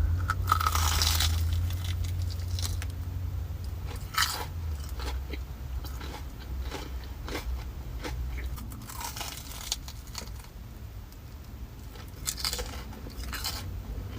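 Biting into and chewing a sugar-coated Korean corn dog, its fried crust crunching. A long crunch comes at the start, then shorter crunches about 4 seconds in, about 9 seconds in and again near the end.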